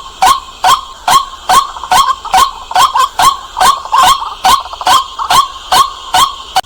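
White-breasted waterhen calling: a loud, sharp 'kwak' note repeated steadily, a little over two calls a second.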